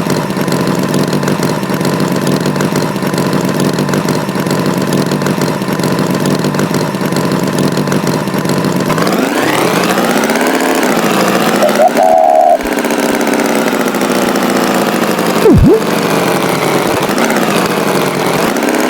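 Tractor engine running steadily, then revving with a rising, wavering pitch about halfway through. A short loud high tone sounds near the middle, and a sudden sharp swoop in pitch follows a few seconds later.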